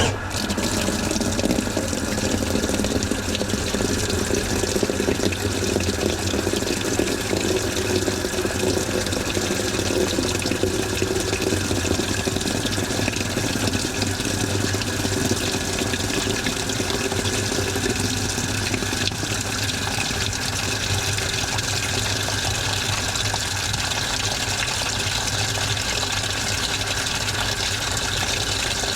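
Washing machine with water starting to rush abruptly and running steadily, with a low hum underneath.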